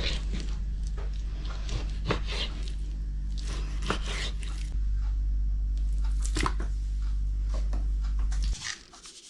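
Food-preparation handling sounds with spices and jars: a few sharp taps and knocks over a steady low hum that stops shortly before the end.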